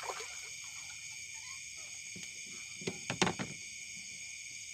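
Steady, high-pitched chorus of insects such as crickets or cicadas, with a few short knocks about three seconds in.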